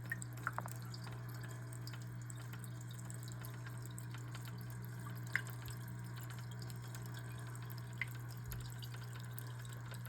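Water trickling over the stones of a small aquarium gemstone waterfall, with a few drops plinking now and then over a steady low hum.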